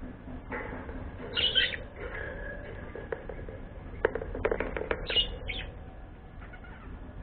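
Pet parrot-type bird giving two short harsh squawks, with a quick run of sharp clicks or taps between them.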